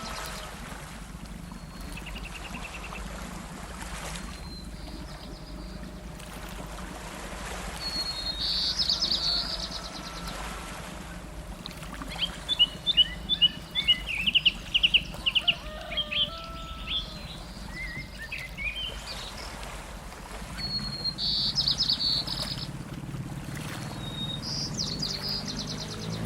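Songbirds singing: short high trills every several seconds, with a busier run of quick chirping notes in the middle, over a steady low hum.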